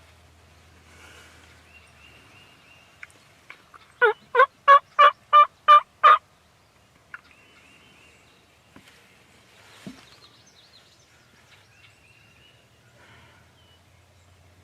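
A series of seven loud yelping calls in quick succession, about three a second, in the manner of a wild turkey's yelps, with faint birdsong behind.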